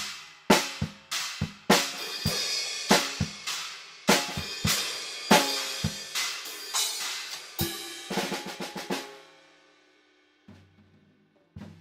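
Acoustic drum kit played freely: snare, bass drum, hi-hat and cymbal hits, heard through a stereo overhead pair about two metres away. About nine seconds in the playing ends on a quick run of strokes and fades out. A few soft hits follow, and the groove starts again near the end.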